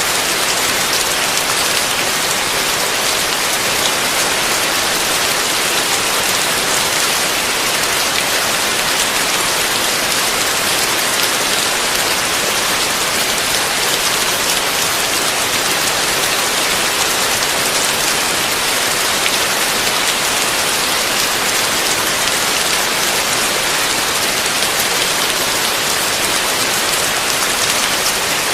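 Heavy rain falling steadily on a roof: a dense, even hiss of countless drops, with no thunder.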